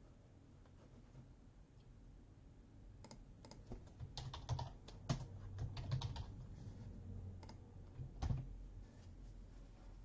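Typing on a computer keyboard: faint, irregular key clicks starting about three seconds in and stopping shortly before the end.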